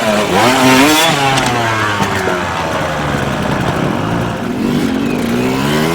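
Dirt bike engine revving up and down, the pitch climbing at the start, easing off through the middle and rising again near the end.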